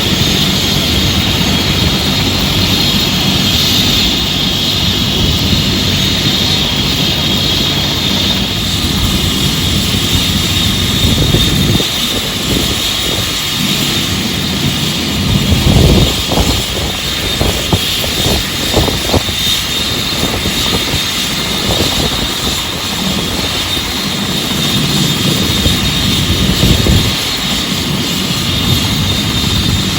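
Helicopter engine and rotors running steadily: a loud, constant rush with a high whine, and heavier low rumbles coming and going in the middle.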